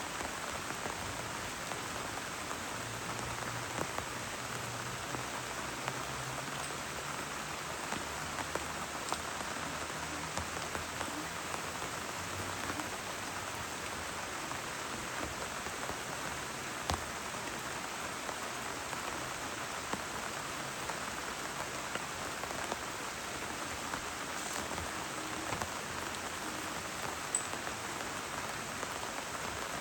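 Heavy rain falling steadily, a dense even patter with a few louder single drops.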